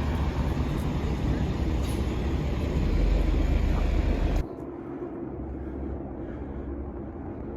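Low, loud engine rumble with faint voices in the background, cutting off suddenly a little over halfway through to a quieter steady hum.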